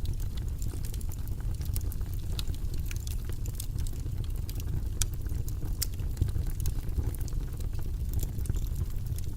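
A steady, low rumbling background noise with many small, irregular crackles and clicks over it.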